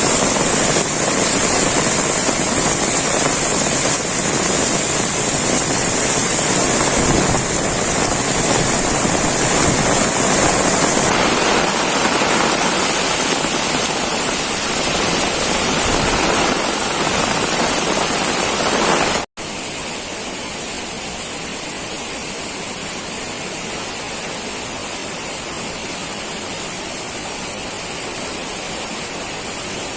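Heavy rain pouring down in a steady, dense hiss. About two-thirds of the way through it cuts out for an instant and comes back a little quieter and thinner.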